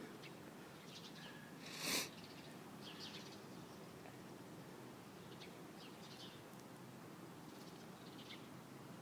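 Faint short high chirps from a small bird, coming in little clusters every second or two. About two seconds in there is one brief loud rustle, the loudest sound.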